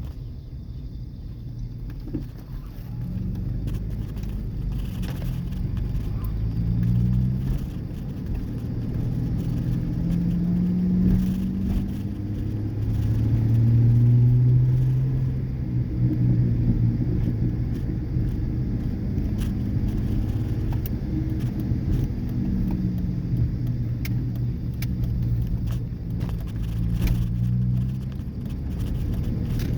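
Muffler-deleted 2003 Ford Ranger's 4.0-litre V6 running on the road, its exhaust note rising and falling with engine speed and loudest about halfway through. The catalytic converters are still fitted, so the note stays fairly quiet for a muffler delete.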